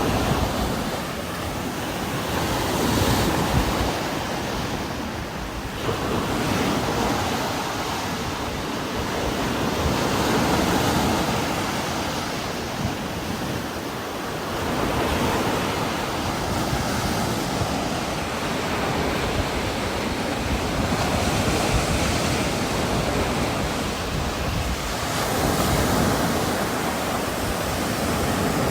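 Heavy rain with strong gusting wind: a dense, steady rush of noise that swells and eases every few seconds as the gusts come and go.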